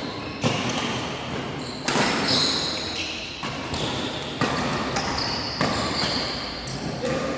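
Badminton rally: rackets striking the shuttlecock with sharp hits about four times, a second or two apart, over a steady background din.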